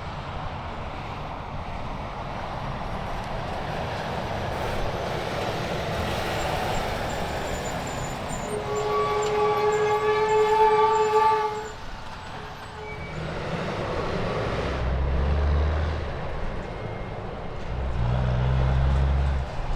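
Heavy trucks passing on a highway, with tyre and engine noise swelling. About nine seconds in, a multi-tone air horn sounds one chord-like blast of about three seconds, the loudest sound here. Near the end comes a deep engine rumble as another big rig goes by.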